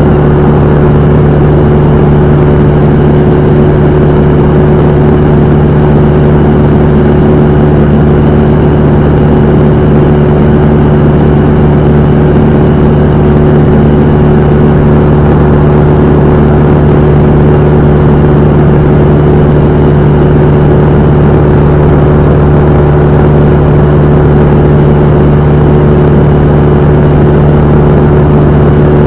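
Cessna 172M's four-cylinder Lycoming O-320 engine and two-blade propeller running at steady power: a loud, even drone that holds one pitch throughout.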